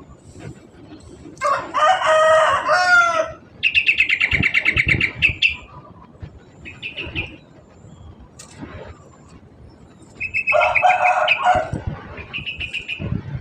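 Yellow-vented bulbul calling while being fed: runs of rapid, high, pulsed chirps, together with two louder, longer crow-like calls about a second and a half in and again about ten seconds in.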